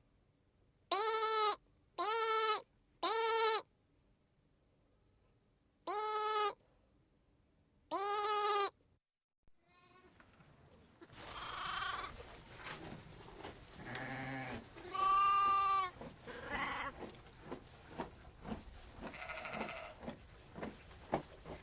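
Goat bleating: five short, identical bleats a second or two apart. From about ten seconds in, a noisier stretch follows with varied animal calls, a longer bleat near fifteen seconds, and scattered light tapping.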